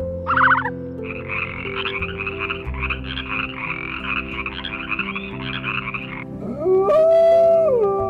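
Frogs croaking: a short pulsed croak, then a dense chorus of rapid croaks from about a second in until about six seconds. Near the end a wolf howls, its pitch rising, holding, then falling. Background music runs underneath.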